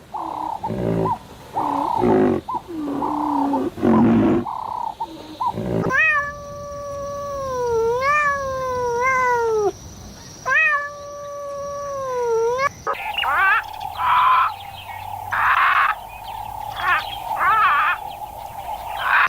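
Animal calls in edited clips: first a run of short calls, then from about six seconds in a few long wavering calls, then from about thirteen seconds short high calls over a steady hum.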